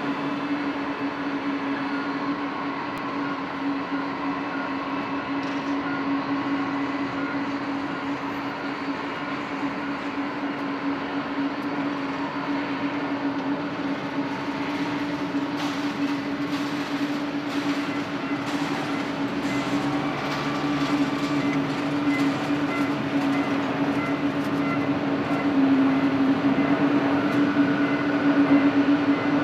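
Boeing 787-8's Rolls-Royce Trent 1000 jet engines at takeoff, a steady drone with a held low tone, growing louder near the end.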